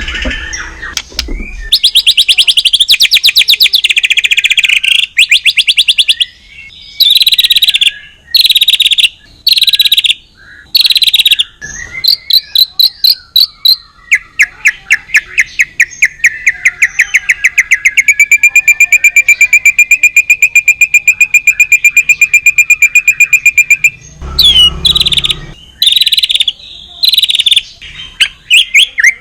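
White-rumped shama (murai batu) singing loudly in fast, rattling trilled phrases separated by short pauses. Midway it holds one long, even, rapid trill for about ten seconds, then breaks back into shorter phrases.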